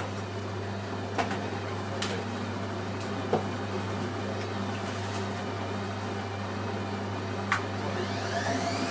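Hoover Electron 1100 washing machine running with a steady motor hum and a few sharp clicks; near the end a rising whine sets in as the drum motor speeds up towards spin.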